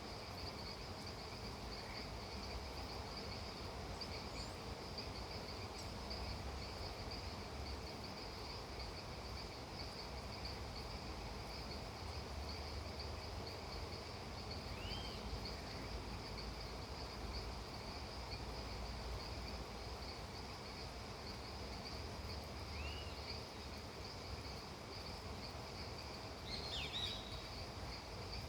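Insects trilling steadily in a continuous high shimmer over a low, even background hiss. Three short rising chirps break through, about halfway in, near 23 seconds and near the end; the last is the loudest.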